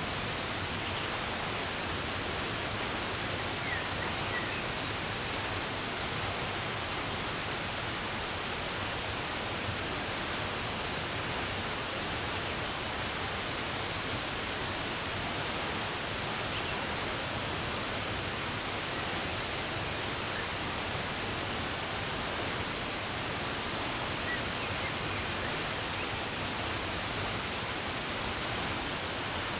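Steady rush of running water, with a few faint, scattered bird chirps.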